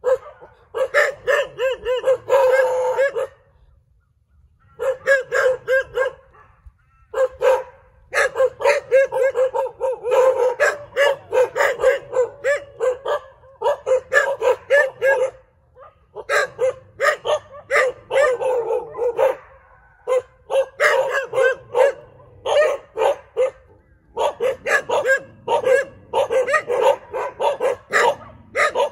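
Several dogs barking in quick runs of sharp barks, broken by short pauses of a second or so.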